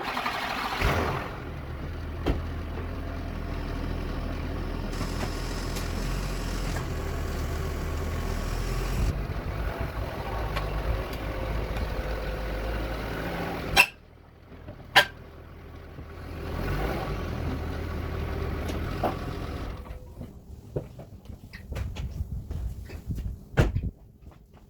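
A Ford BF Falcon's engine running as the car is driven onto ramps, its note shifting a few times; it stops suddenly about halfway through with a sharp knock, followed by a second knock. A shorter stretch of running follows, then scattered clicks and knocks.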